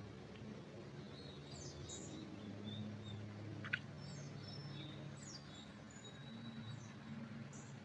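Small forest birds chirping with short, high calls and brief trills scattered throughout, one sharp short call or click about halfway through, over a low steady hum.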